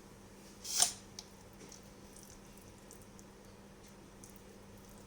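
Hands pressing butter under raw chicken skin: one short wet squish about a second in, then faint soft handling ticks.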